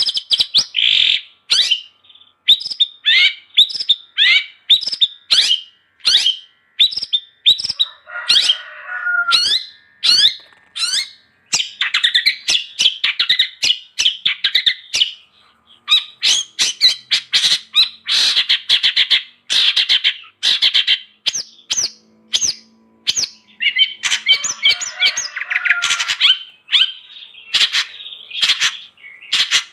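Long-tailed shrike (cendet) singing vigorously: a fast, varied, almost unbroken string of sharp chirps mixed with harsh squawking calls, with a couple of brief pauses.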